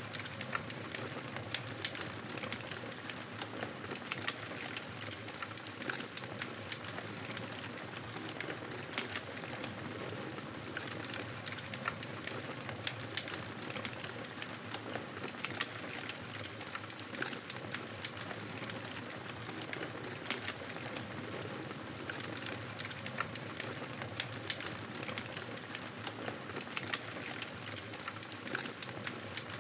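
Fireplace fire crackling steadily: many small, quick pops and snaps over a constant soft hiss.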